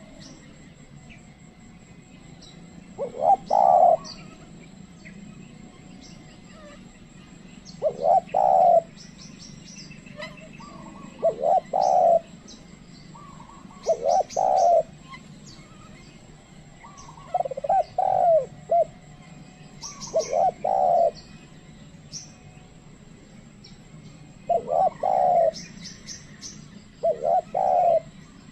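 Spotted dove (tekukur) cooing: eight short, loud coo phrases of a few notes each, repeated every three seconds or so. Faint chirps of small birds sound between them.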